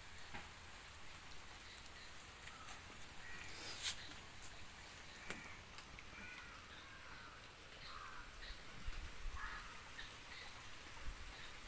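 Faint bird calls, a handful of short caws spread through, over a thin steady high-pitched whine.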